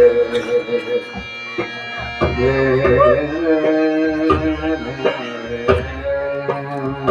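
Bhajan music: sustained melody notes over deep hand-drum strokes, with sharp strikes every second or so.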